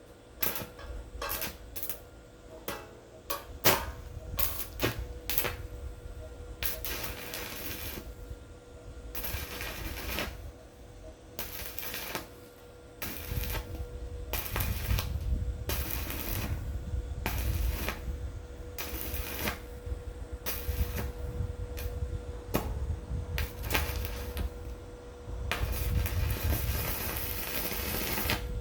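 Handling and work noise: a quick, irregular run of sharp clicks and knocks, then longer noisy stretches with a low rumble from about halfway through, over a faint steady hum.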